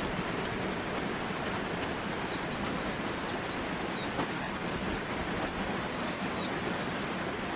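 Steady rush of running water from a stream or waterfall, with a few faint high chirps in the middle.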